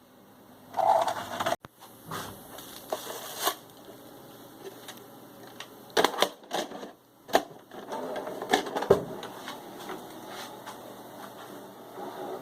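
Clicks and clatter from a Panasonic NV-P05 video cassette recorder being handled and worked, with a scattering of sharp knocks, the loudest about six seconds in and near nine seconds.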